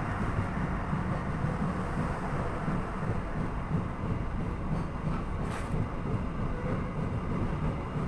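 Economy passenger train running along the track, a steady rumble of wheels on rail, with one brief sharp click about five and a half seconds in.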